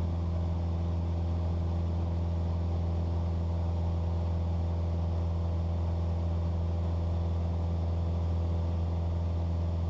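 Cessna 172's piston engine and propeller droning steadily in the cabin as the plane climbs slowly near 10,000 feet, where it barely wants to climb any more in the thin air.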